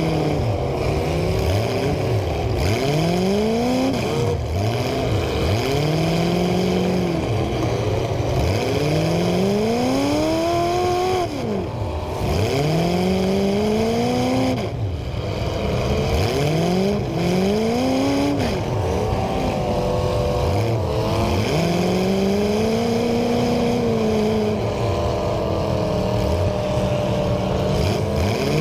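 Demolition derby cars' engines revving over and over, the pitch climbing and dropping every second or two, with more than one engine heard at once.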